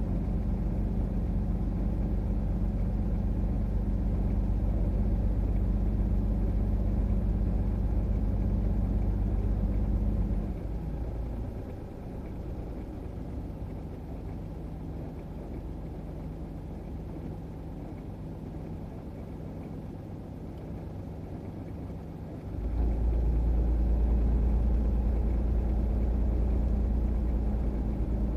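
Parked truck's engine left idling, a steady low hum. About ten seconds in it drops noticeably quieter, and about twenty-two seconds in it comes back up to full strength.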